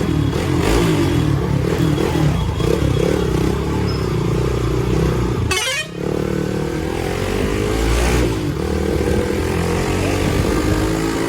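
A Hero Xpulse 200's single-cylinder engine running through an aftermarket exhaust while being ridden, its note rising and falling with the throttle. About halfway there is a brief drop as the throttle closes, then it picks up again.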